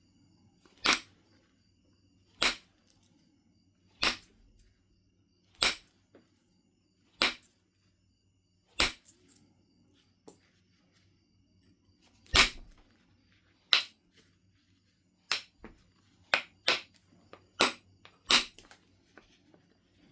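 Knife River flint being knapped, with about fourteen sharp clicks as flakes come off the stone. They fall about every second and a half at first and come closer together near the end.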